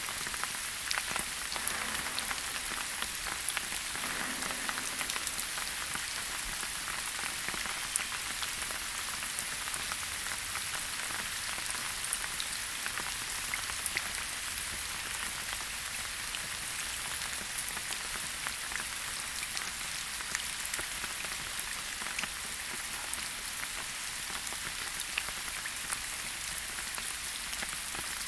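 Steady rain falling in a forest, an even hiss with many small drops pattering and ticking on leaves and surfaces.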